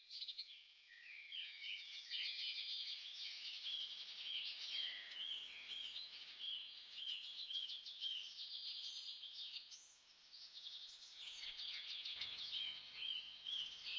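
Birds chirping: a steady bed of quick, high, repeated chirps that fades briefly about ten seconds in before picking up again.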